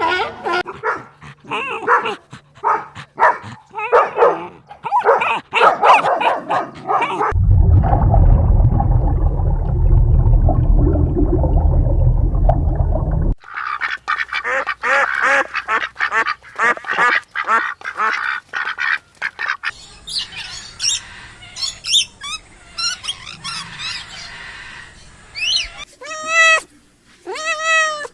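Ducks quacking in rapid, overlapping calls, broken for several seconds in the middle by a loud low rumble. High-pitched chirping follows, and a cat meows a couple of times near the end.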